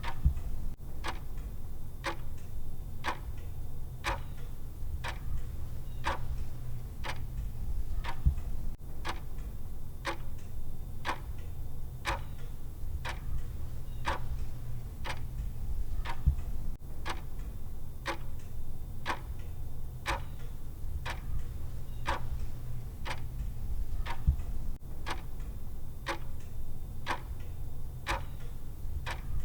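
Clock-style tick sound of a countdown timer: steady, evenly spaced ticks, roughly two a second, over a low steady hum.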